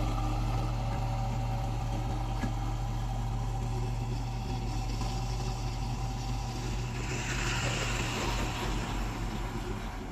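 A heavy construction machine's diesel engine running steadily with a low hum. About seven seconds in, a rushing hiss rises over it for roughly two seconds.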